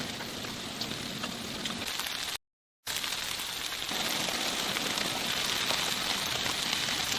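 Steady pattering hiss of precipitation on a surface. About two and a half seconds in it is cut by half a second of dead silence where the recording is spliced.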